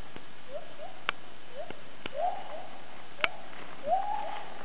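Gibbons calling: a series of rising whoop notes, each a quick upward glide, with the later notes longer and louder. A few sharp clicks are heard in between.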